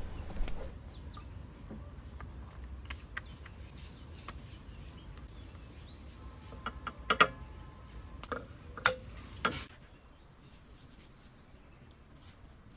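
Small birds chirping in short, arching calls, with a few sharp clicks or knocks between about seven and ten seconds in, the loudest sounds here. A faint low hum stops about ten seconds in.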